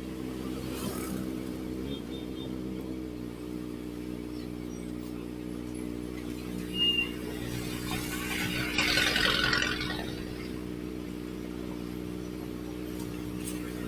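Kawasaki ZX-4RR's inline-four engine running through an SC Project exhaust at a steady, even pitch. About halfway through, a louder rushing noise rises and fades over a couple of seconds.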